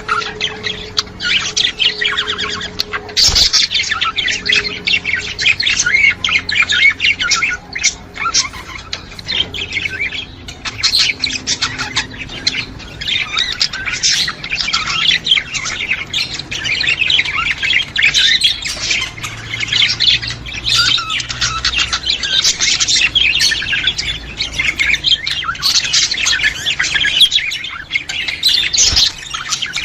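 Budgerigars chattering and warbling without a break, a dense mix of quick chirps and squawks.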